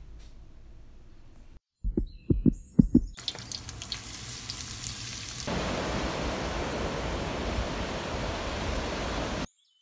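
A few dull knocks, then the steady sizzle of meat frying on a hot griddle, which becomes louder and fuller about five seconds in as food sizzles in a wok over a gas flame. The sizzle cuts off suddenly near the end.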